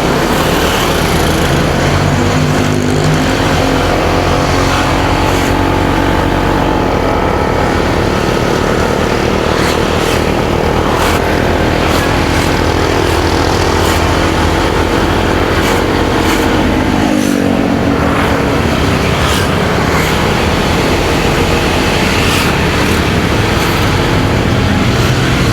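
Motorcycle engine running under way with wind and road noise. Its note climbs slowly, drops sharply about two-thirds of the way through, then climbs again.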